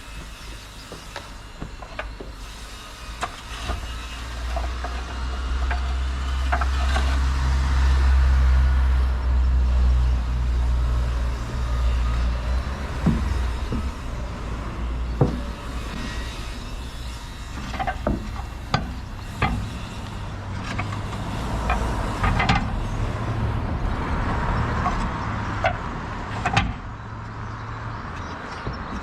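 Low engine rumble of a large vehicle, swelling over the first several seconds and then holding at a lower level, with scattered sharp knocks and taps throughout.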